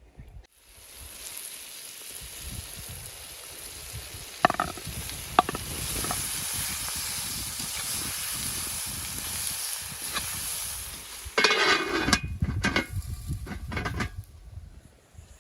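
Food sizzling steadily in hot fat, with two sharp knocks a few seconds in. Near the end a louder burst of sizzling with clattering and scraping lasts about three seconds, then stops.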